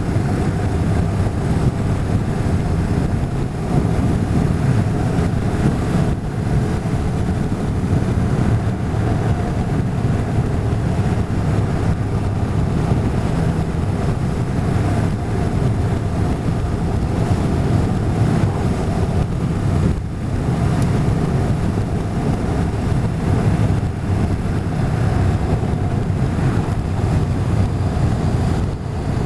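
Motorcycle engine running steadily at road speed, mixed with wind rushing over the microphone.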